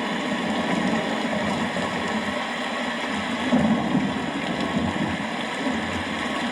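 Steady rain with a low rumble underneath, swelling slightly about three and a half seconds in.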